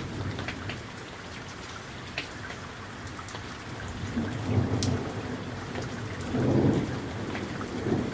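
Summer thunderstorm: steady rain falling, with sharp drop hits, and low thunder rumbling. The thunder swells about halfway through and is loudest about three quarters of the way in.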